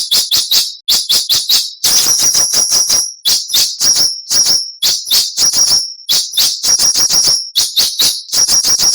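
Songbird giving harsh, rasping call notes (the 'besetan' used in Indonesian bird-training recordings), loud and in quick runs of five to eight strokes, one run about every second, some with a high whistle running through them.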